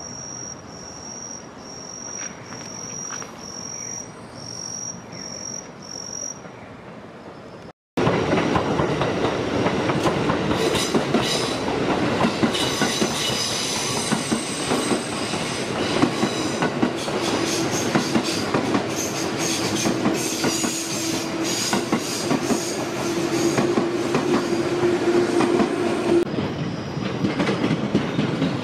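A high chirp repeats about once a second at first. After a sudden cut, an electric train passes on the nearby line, with the steady rush and rattle of wheels on rail and a steady hum that stops near the end.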